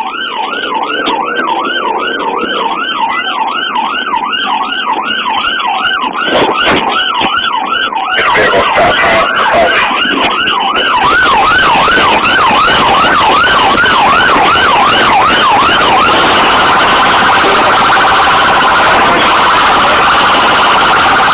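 Police cruiser siren in yelp mode, its pitch sweeping up and down about two and a half times a second, with road and engine noise growing louder about a third of the way in. Toward the end it switches to a much faster warble.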